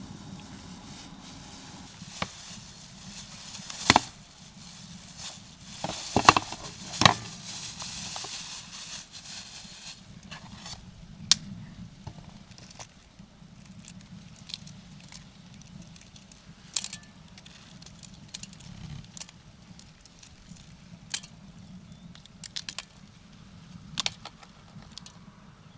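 Scattered clicks and knocks of cooking work over a soft frying sizzle that stops about ten seconds in; a few louder knocks come in the first half.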